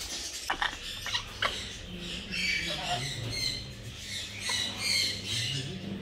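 Aviary birds chirping and calling in short, high bursts, with a few sharp clicks in the first second and a half.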